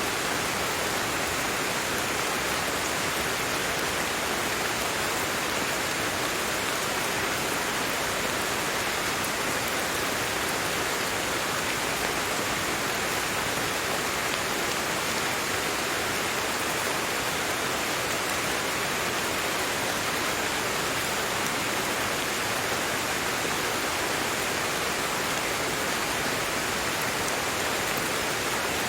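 Steady, even rain, a continuous hiss of falling rain with no distinct drops, thunder or other events standing out.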